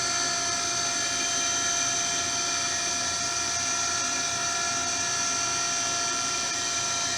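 Brown & Sharpe 814U universal grinder running, giving a steady whine made of several high, constant tones over a low rumble.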